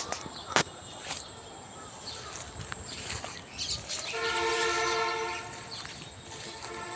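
A horn sounds once, a held chord of steady tones lasting about a second and a half, a few seconds in. A steady high whine runs underneath, with a couple of sharp clicks near the start.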